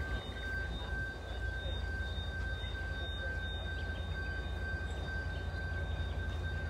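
Freight train noise: a steady deep rumble with a thin, steady high whine over it.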